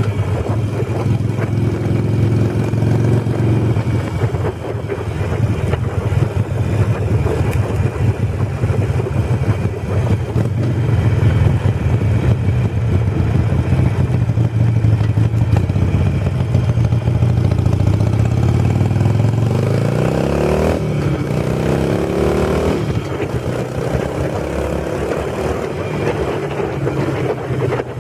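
Harley-Davidson Sportster 883's air-cooled V-twin engine running under way. The engine note is steady for most of the ride, then rises in pitch about twenty seconds in as the bike accelerates, and again shortly after.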